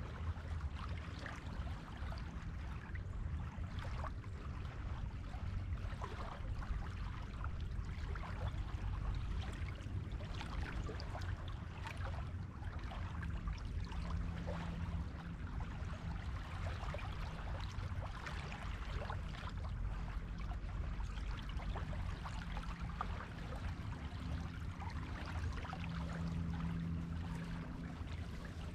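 Surf on a beach: waves washing steadily onto the shore, with a deep rumble underneath and a fine fizzing crackle of water running over sand. A faint low hum comes and goes twice.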